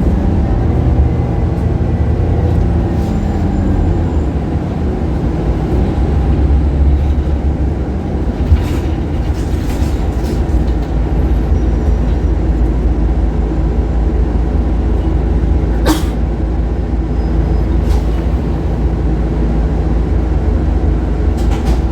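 Scania K280UB city bus's rear-mounted diesel engine running with a heavy low rumble, its tone shifting up and down in the first few seconds and swelling briefly in the middle. A few sharp clicks or rattles sound over it, the loudest about two-thirds of the way through.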